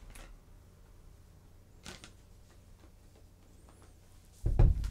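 Faint clicks as a closed Kindle Fire tablet is handled, then a loud knock and handling noise near the end as it is set down on the table.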